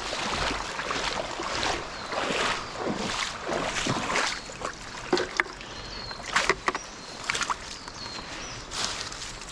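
Shallow stream water splashing and sloshing in repeated strokes, the sound of wading and sweeping a hand net through the water. A few sharp knocks come roughly halfway through, like stones clacking underwater.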